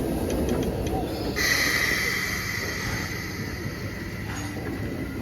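A train rumbles along. About a second and a half in, a sudden loud hiss with a high steady squeal starts and fades out over the next three seconds.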